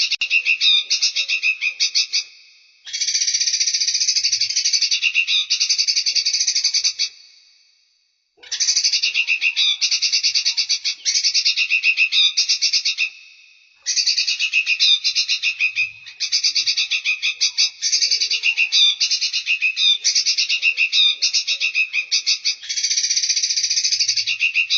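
Songbird song recorded for bird training: long phrases of rapid, evenly pulsed high-pitched trilling, each a few seconds long, broken by short pauses.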